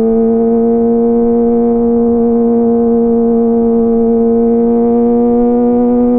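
Kawasaki ZX-25R's inline-four engine running through a DX Generation GPR full-system exhaust at steady high revs on a light, even throttle, its high-pitched note climbing slowly.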